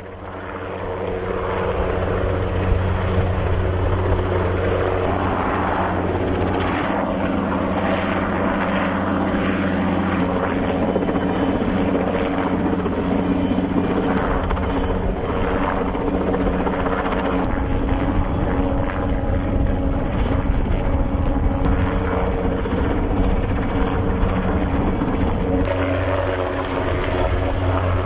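Helicopter rotor and turbine engine running steadily while hovering under load, growing louder over the first couple of seconds and then holding constant until it cuts off abruptly.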